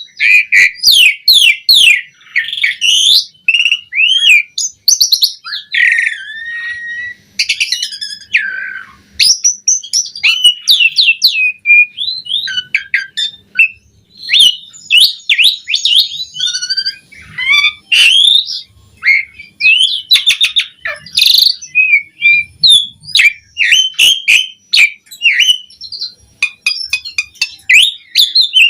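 Javan pied starling (jalak suren) singing a long, varied song of rapid whistles, trills and harsh clicks, with hardly a pause.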